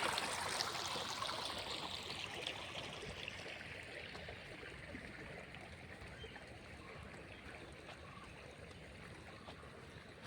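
Water of a small stream running and splashing, fading gradually over the first half and then faint and steady.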